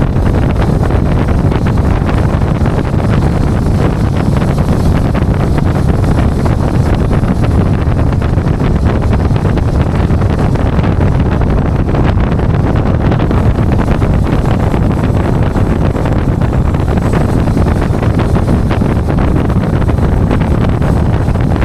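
Steady low rumble of a tow truck driving, with wind buffeting the microphone.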